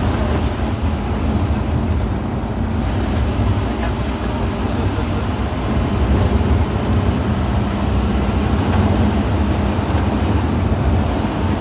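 Scania N230UD OmniCity double-decker bus's five-cylinder diesel engine running steadily, a low drone.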